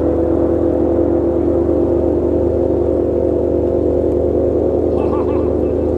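A car engine idling steadily: an even drone that holds one pitch with no revving.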